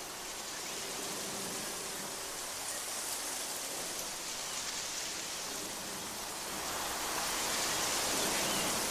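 A steady hiss of even, rain-like noise, growing slightly louder near the end.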